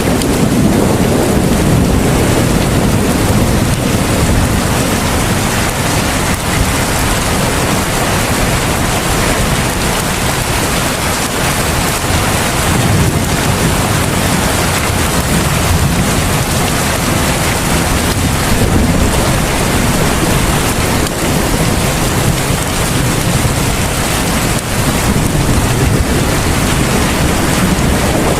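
Heavy rain falling steadily, a dense even hiss with a low rumble underneath that swells a few times.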